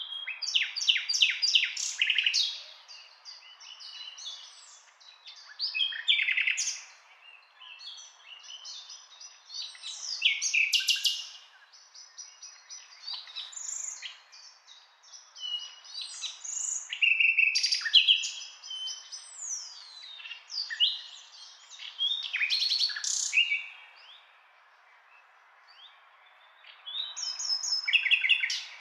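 Songbirds singing: bursts of rapid chirps, trills and short whistles every few seconds, over a faint steady background hiss.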